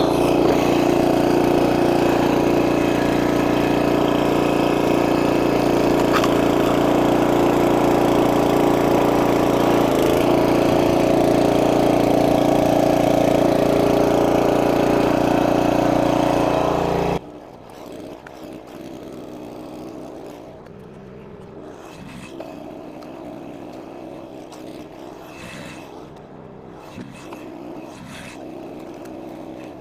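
A gasoline engine running steadily at high speed, which stops abruptly about 17 seconds in. Quieter rustling and knocking follow.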